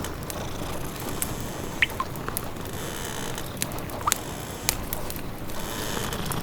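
Wood fire crackling in a fireplace, with scattered sharp pops and a few short squeaky hisses over a steady background hiss.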